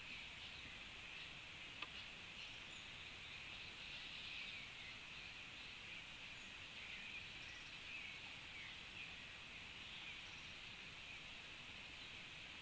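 Faint, steady high-pitched insect drone of natural ambience, with a single sharp tap about two seconds in.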